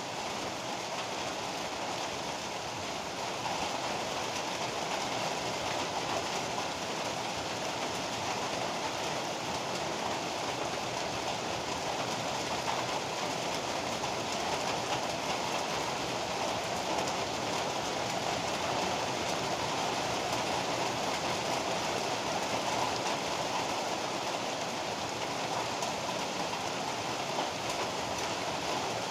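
Heavy rain pouring steadily, a dense even hiss of downpour that grows slightly louder about three and a half seconds in.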